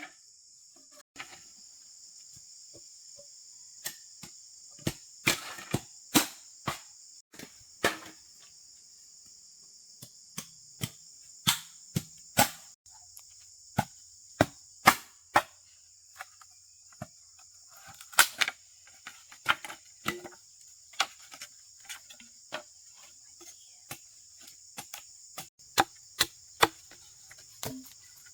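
Irregular sharp blows on wood during hand building work, some loud, some faint, with no steady rhythm. A steady high-pitched insect drone runs underneath.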